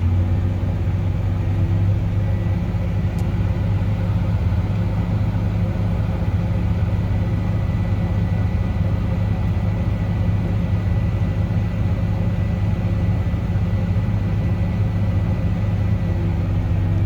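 Combine harvester's engine running steadily, heard from inside the cab. A faint, steady high whine joins about two seconds in.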